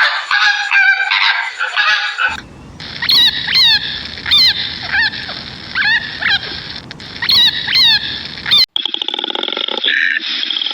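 A run of animal calls: a series of short calls that each drop in pitch, about two a second, then a sudden change to a dense pulsed buzzing call.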